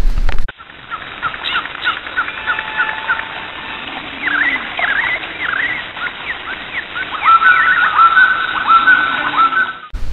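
Wild birds chirping and calling over a steady outdoor hiss, with a run of repeated whistled notes, about two a second, in the last few seconds.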